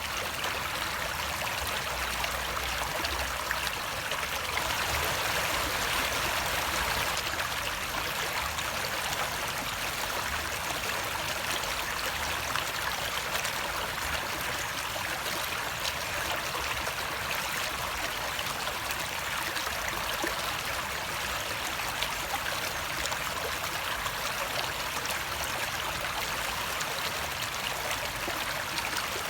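Flowing water, like a small stream running over stones: a steady rush with trickling, swelling slightly about five seconds in.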